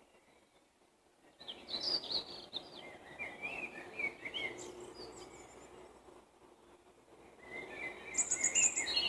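Songbirds singing in spring countryside: a burst of varied, quick chirping phrases about a second and a half in, then a second burst near the end that finishes in a high, rapid trill.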